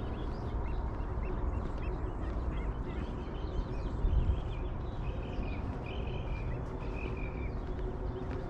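Birds calling in many short high chirps, with a few longer, drawn-out calls in the second half, over a steady low rumble.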